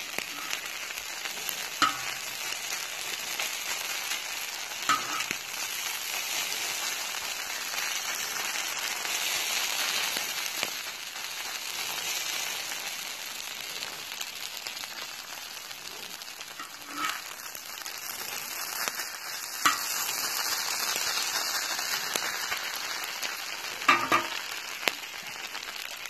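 Hash browns and bacon frying on a steel plow-disc cooker, a steady sizzle throughout. Several sharp clacks of the metal spatula against the disc stand out above it.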